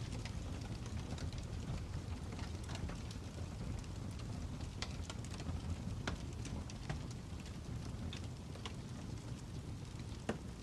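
Fire crackling: a steady low rumble with scattered sharp pops and snaps, and a louder snap near the end.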